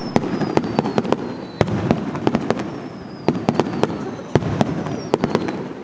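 Aerial fireworks going off in a dense, irregular series of sharp bangs and crackles, several a second, with faint whistles falling slowly in pitch.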